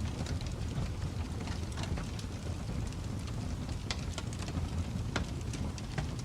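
Wood fire burning in a fireplace: a steady low rumble with frequent sharp crackles and pops, a few louder snaps about four and five seconds in.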